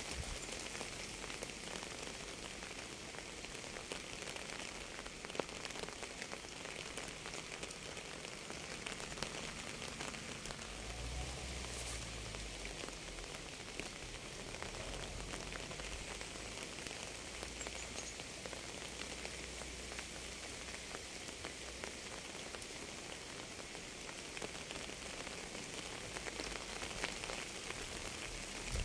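Steady rain falling on a surface, an even hiss dotted with countless small drop taps.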